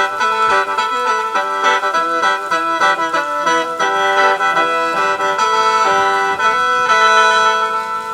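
Khaen, the bamboo free-reed mouth organ, playing a quick melody over a steady drone note, moving into longer held chords near the end.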